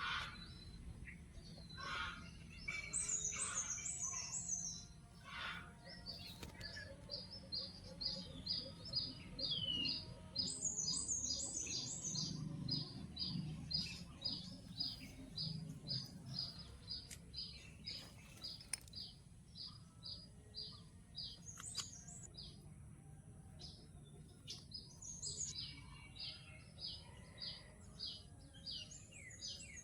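Small birds chirping: one short high note repeated steadily about twice a second, with bursts of higher, faster trilling every several seconds.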